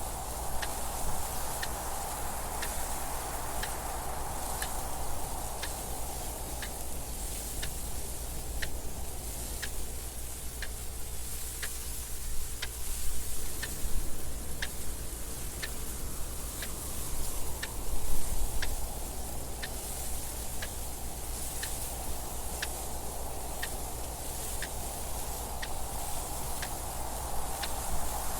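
A clock ticking steadily about once a second over continuous wind noise that swells and eases, with a few louder gusts midway.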